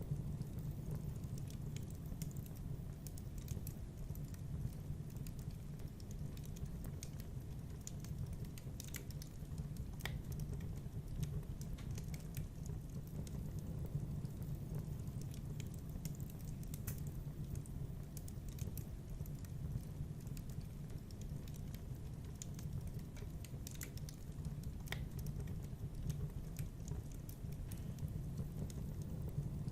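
Wood fire burning in a fireplace: a steady low rumble with irregular crackles and sharp pops.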